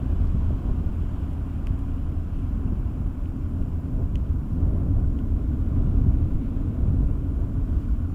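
A steady low rumble that rises and falls a little in level, with nothing sharper standing out.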